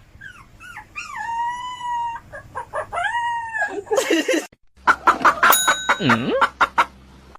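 An animal giving a series of short, wavering pitched calls, followed about four seconds in by a brief burst of noise and then a run of sharp clicks with a tone that swoops down and back up.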